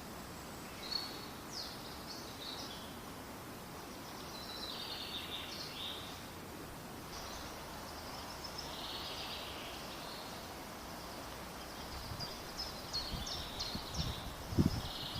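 Several small birds chirping and calling in quick, repeated phrases over a steady background hiss, with a few low thumps near the end.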